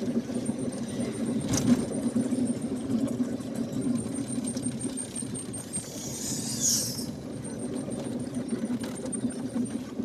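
Vehicle engine running steadily as it drives, heard from inside the cabin, with a sharp knock about two seconds in and a brief high hiss about six seconds in.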